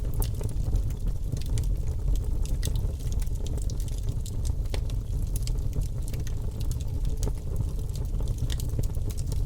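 Logs burning in a fireplace: frequent sharp crackles and pops over a steady low rumble of the fire.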